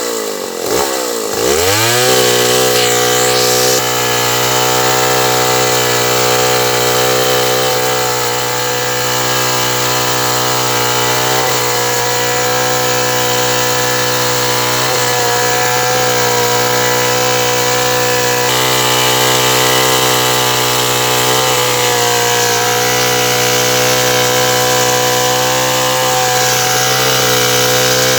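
Stihl 070 two-stroke chainsaw, revved up and down over the first two seconds, then running at a steady, even high speed.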